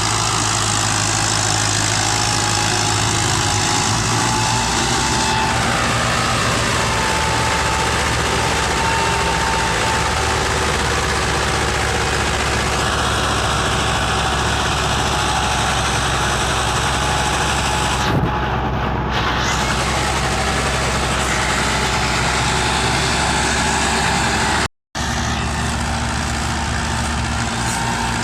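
Diesel tractor engine running steadily; its low note shifts a few times. The sound cuts out completely for a moment near the end.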